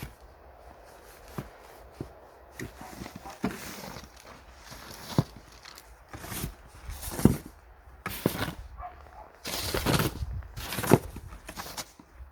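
Footsteps crunching in snow, irregular and uneven, with a few sharper knocks among them.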